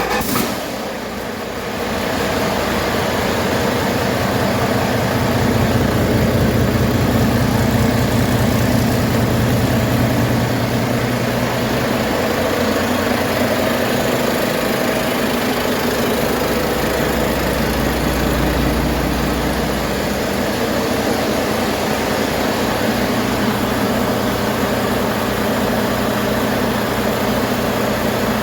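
2015 Volvo D13J 13-litre inline-six diesel engine running steadily at idle just after starting, its firing pulses even. The seller says it runs excellent.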